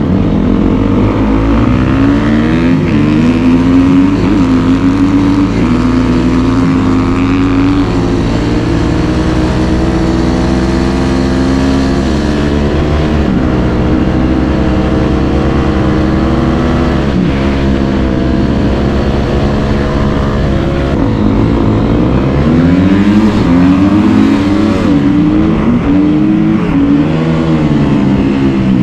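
Dirt bike engine running under load while riding, its pitch rising and falling with the throttle and gear changes, with several quick drops and climbs near the end.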